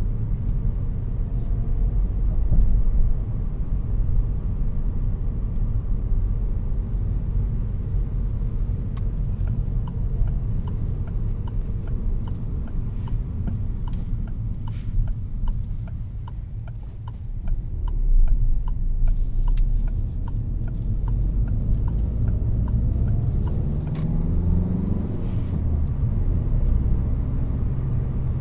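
2018 Peugeot 308 1.6 BlueHDi 120's four-cylinder turbodiesel and tyres giving a steady low rumble while driving. A regular ticking at about two a second runs from about ten to twenty seconds in. Near the end the engine pitch rises as the car accelerates.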